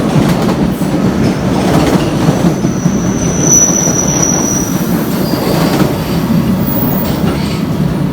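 Train running along the track, a steady low noise throughout. About three and a half seconds in, a thin high-pitched wheel squeal lasts for about a second.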